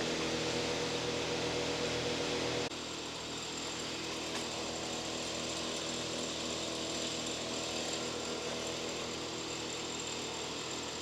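A steady mechanical drone with a low hum, dropping slightly in level at an abrupt cut about three seconds in.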